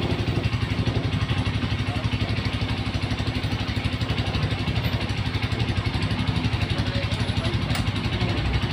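Honda CRF motorcycle engine with its stock muffler, idling steadily with an even, fast exhaust pulse.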